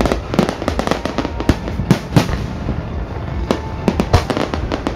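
Fireworks display with aerial shells bursting in rapid, irregular succession: many sharp bangs and crackles over a continuous low rumble, with music playing underneath.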